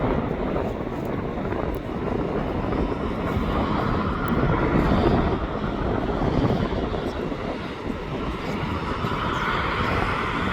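Jet airliner engines running, a steady, even rumble with no distinct pitch.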